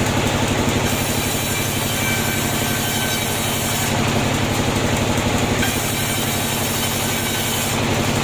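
Sawmill machinery running steadily: a loud engine-like drone with a fast, even pulse. A high hiss comes in for a second or so about every four seconds.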